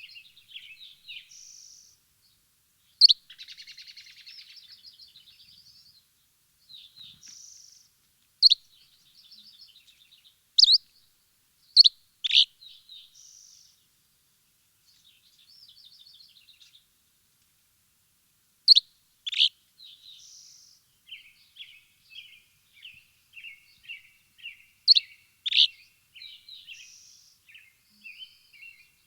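Songbirds chirping and singing: loud, sharp high chirps every few seconds, with quieter warbling trills and short repeated notes between them and brief silent gaps.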